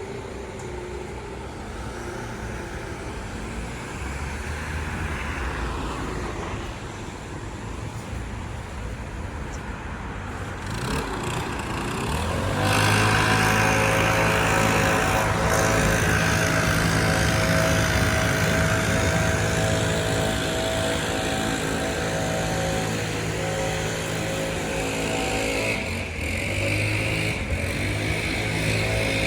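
City street traffic: vehicles passing, then from about halfway a louder, steady engine hum close by that eases off near the end.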